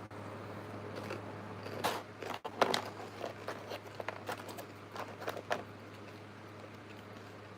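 Close-mic eating: a run of crunching bites and wet chewing clicks, loudest about two to three seconds in and dying out by the middle, over a steady low hum.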